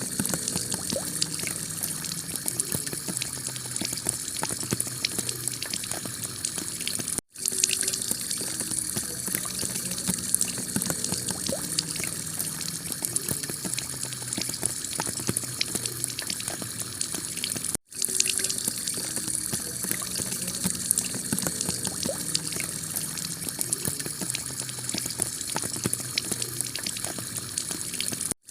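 Heavy rain falling on a clay tile roof: a steady hiss thick with the patter of countless drops. The sound cuts out for an instant twice, about 7 and 18 seconds in.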